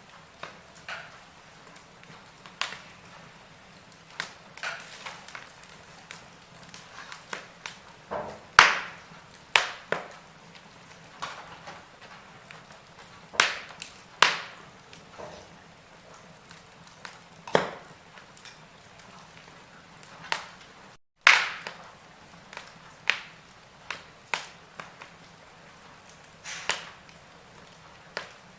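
Wood fire in a fireplace crackling, with irregular sharp pops and snaps over a soft hiss, several of them loud.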